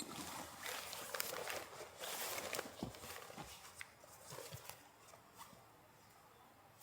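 Irregular rustling and crunching with a few sharp clicks and knocks, busy for about three seconds and then dying away.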